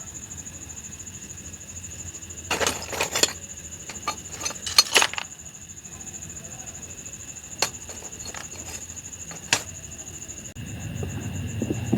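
Several short clusters of sharp clicks and clinks, then two single clicks, over a steady high-pitched whine; a low rumble comes in near the end.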